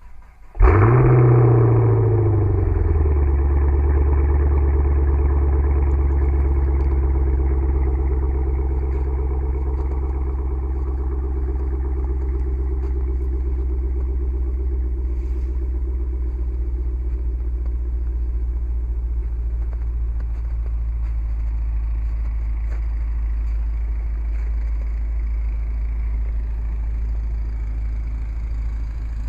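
2013 Chevrolet Camaro SS's 6.2-litre V8 with a Borla ATAK exhaust on a cold start: a brief crank, then the engine catches about half a second in with a rev flare that falls away over about two seconds. It then settles into a steady idle that eases slowly.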